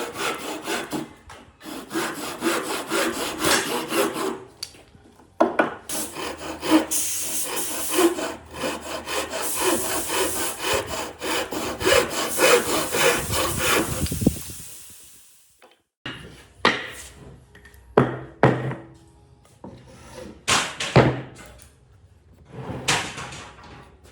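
Wood being worked by hand with a tool in rapid, repeated back-and-forth strokes, like sawing or rasping. The strokes fade out about two-thirds of the way through, then come back as slower, separate single strokes.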